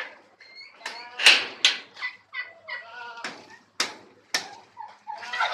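Peafowl calling: a string of short, harsh calls, the loudest about a second in.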